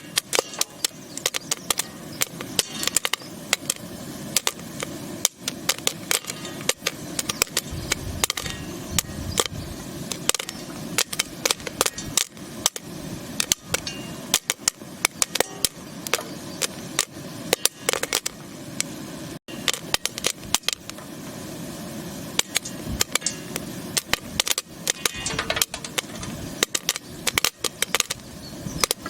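Popcorn kernels popping in rapid, irregular bursts of sharp pops, several a second, over a steady hiss from the hot pot.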